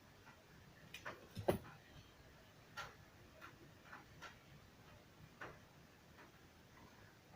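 Irregular light clicks and taps from small tools and parts being handled, a dozen or so spread unevenly, the loudest a sharper double knock about a second and a half in.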